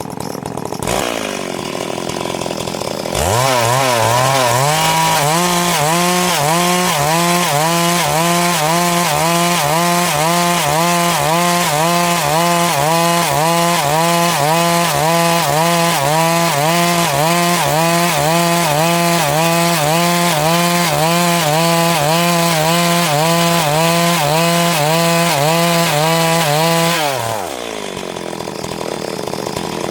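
Chainsaw cutting through a log. The engine comes up to full revs about three seconds in and holds there, its pitch rising and falling evenly about one and a half times a second as it works the cut. Near the end it drops back toward idle.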